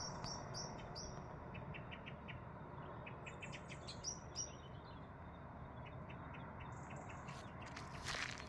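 Small birds chirping faintly in short repeated high chirps, with soft ticking calls, over a steady quiet outdoor hiss; a brief rustle near the end.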